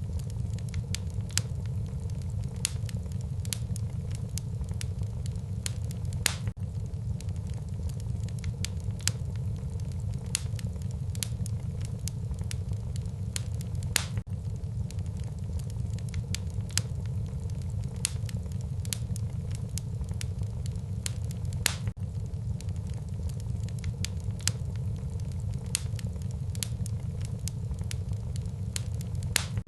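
Wood burning in a fireplace, crackling with sharp pops at irregular moments, one or two a second, over a steady low rumble.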